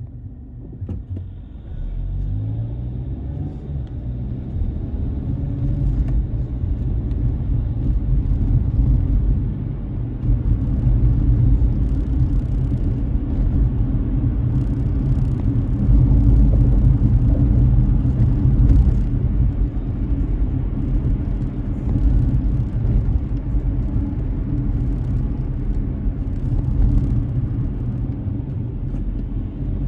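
Car driving on a wet road: a steady low rumble of engine and tyres that builds over the first few seconds as the car gathers speed, then holds, with faint ticks above it.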